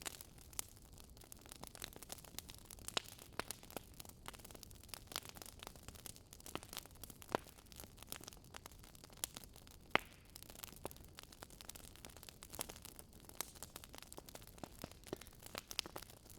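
Burning firewood crackling: irregular sharp pops and snaps, several a second, over a faint steady hiss.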